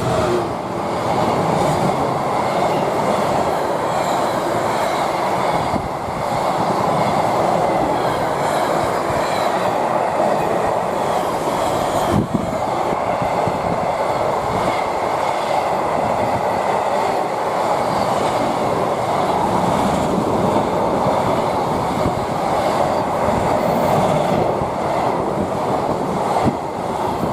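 Freight train hauled by a DB Cargo class 66 diesel locomotive passing, a long steady rumble and clatter of wagon wheels on the rails.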